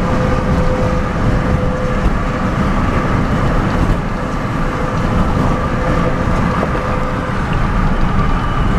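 Steady road and engine noise heard inside a moving truck's cabin: a constant low rumble with a faint steady hum over it.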